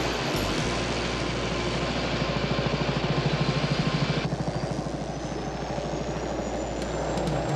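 Helicopter rotor chop, a fast, even beat that grows louder toward about three seconds in and then eases off, as in a fly-by.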